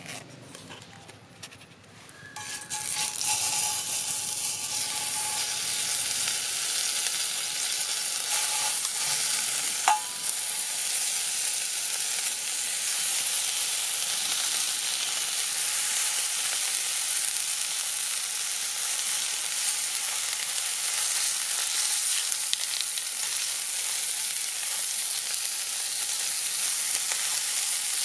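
Food frying in a hot pan, with a steady sizzle that starts about two and a half seconds in and keeps on, and a single click about ten seconds in.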